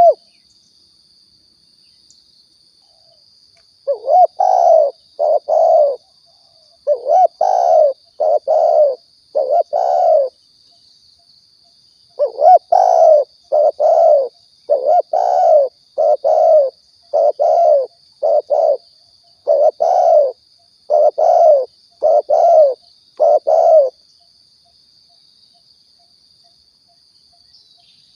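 Spotted dove (tekukur/balam) cooing: a run of about half a dozen coos starting about four seconds in, then after a short pause a longer run of a dozen or so coos, then a pause near the end. This is a recorded call used to lure doves. A faint steady high-pitched whine runs underneath throughout.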